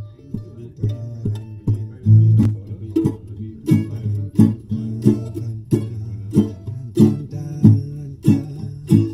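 Music led by a plucked guitar, notes picked in a steady, even rhythm.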